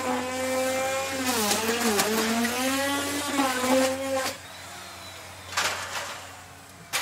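Electric wood router running, its motor whine sagging in pitch and recovering as the bit cuts into wood, with bursts of cutting noise. About four seconds in it drops to a quieter whine, with a short burst of cutting just after five seconds and another at the very end.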